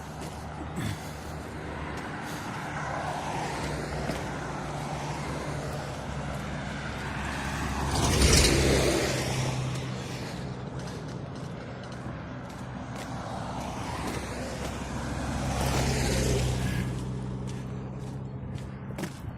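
Steady engine running, with two vehicles passing close by, the louder one about eight seconds in and another about sixteen seconds in.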